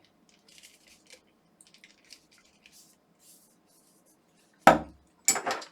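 Faint scraping and clicking of tools working at the plastic housing of an electric toothbrush, then two loud knocks about four and three-quarter and five and a quarter seconds in.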